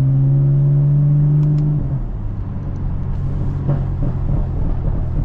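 BMW F82 M4's twin-turbo inline-six engine running under steady throttle with a slowly rising drone. About two seconds in it drops to a lower, quieter hum as the revs fall away.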